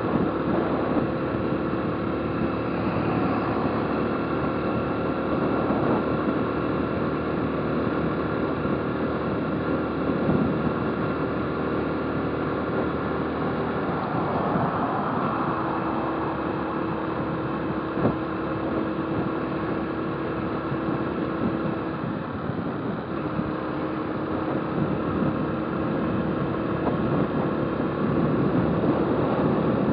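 Motorcycle engine running while riding, with road and wind noise; the engine's drone shifts in pitch a few times along the way, and there is one brief click about eighteen seconds in.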